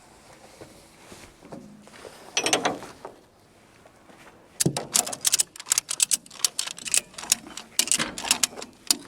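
Ratchet strap being cranked tight: a short clatter about two and a half seconds in, then from about halfway a quick run of sharp ratcheting clicks and strokes.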